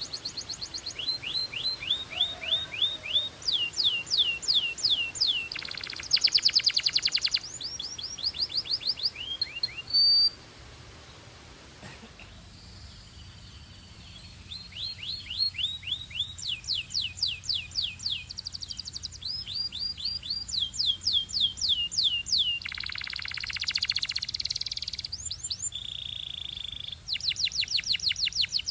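Belgian canary singing: a long song built of rapid trills, each a run of quick repeated sweeping notes, changing from one trill to the next, with a couple of dense buzzing rolls. The song breaks off briefly about a third of the way in, then resumes.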